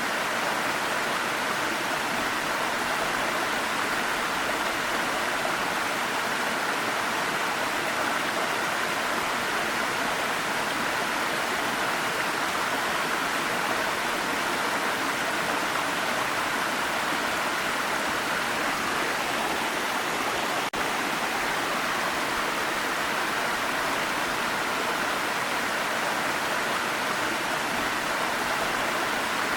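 Waterfall rushing steadily: an even hiss of falling water, strongest in the middle-high range. There is a split-second dip about two-thirds of the way through.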